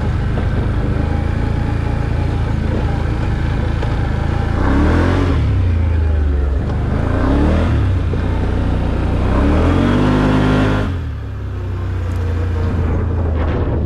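Off-road vehicle engine running along a trail, revving up and easing off three times, then dropping back near the end.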